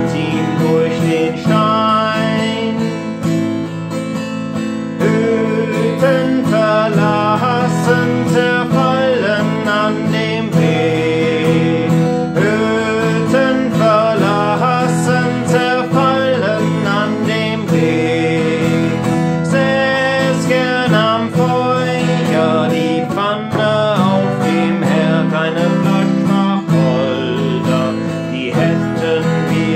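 Acoustic guitar strummed in steady chords, with a wavering melody line carried over it, for a German campfire song.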